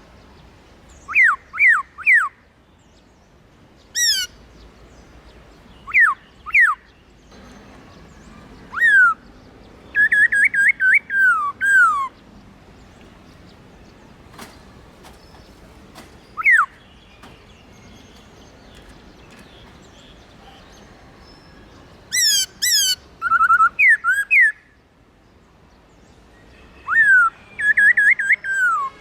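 Black-throated laughingthrush singing: loud, clear whistled notes that slide downward, given in short phrases with pauses between, including quick runs of repeated notes around ten seconds in and again past twenty seconds.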